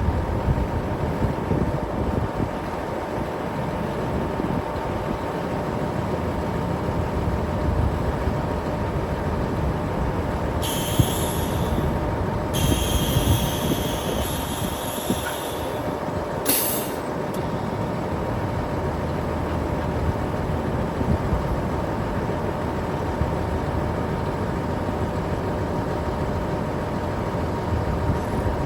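Kenworth W900 concrete mixer truck running steadily, with a low rumble and a steady whine. About eleven seconds in come a few seconds of loud hissing, then a second stretch of hissing, and a brief hiss again near the seventeenth second.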